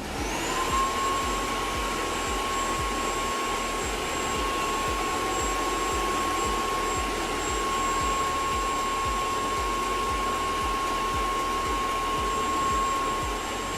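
Vacuum motor spinning up and then running steadily, a high whine over a rush of air.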